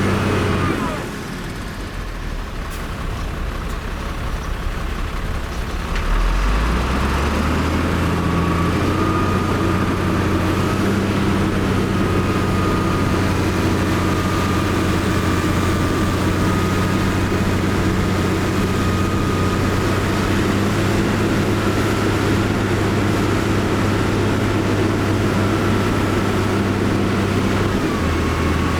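Heavy diesel engine of earthmoving machinery running. It eases off about a second in, revs up with a rise in pitch around six seconds in, and then holds a steady working note.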